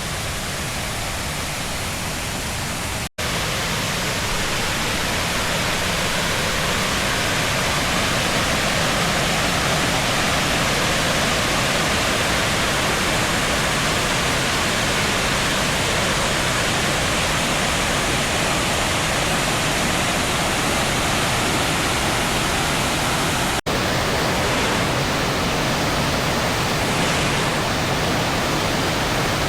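Steady rush of water pouring down the limestone seventh tier of Huai Mae Khamin waterfall, a constant loud hiss, breaking off for an instant about three seconds in and again near the end.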